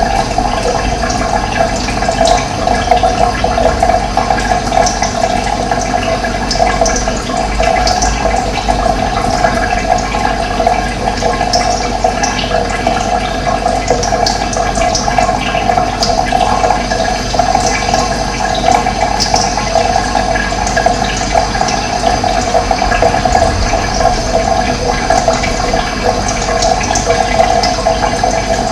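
Steady running water with a strong, even rush, and occasional short high bird chirps over it.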